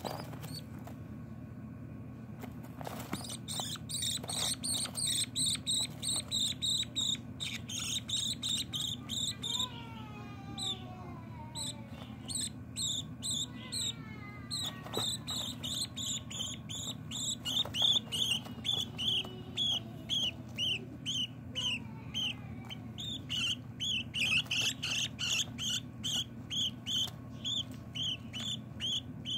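Baby budgerigar chicks chirping: rapid high peeps repeated about three to four times a second, keeping up steadily once they start a few seconds in.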